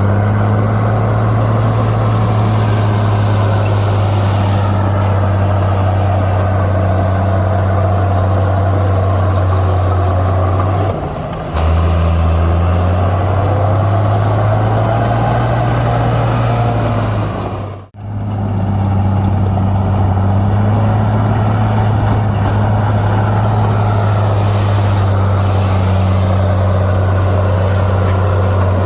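Heavy diesel engine of earthmoving machinery running steadily at working revs. It dips briefly about eleven seconds in and cuts out for an instant about two-thirds of the way through.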